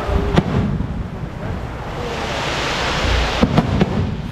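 Fireworks going off: a rushing hiss that swells in the middle, over a low rumble, with a sharp crack near the start and a few more near the end.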